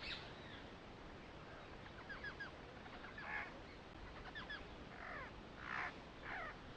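Birds calling: short falling chirps in quick clusters of two or three, repeated several times over a faint background hiss.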